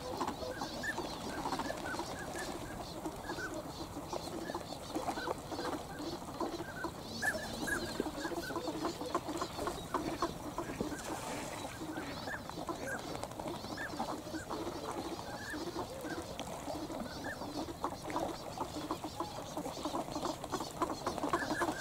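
A large flock of swans and ducks calling continuously: a dense chatter of many short, overlapping calls.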